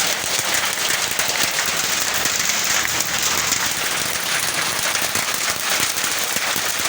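Heavy rain falling with hail: a dense steady hiss, thick with sharp clicks of hailstones striking hard surfaces.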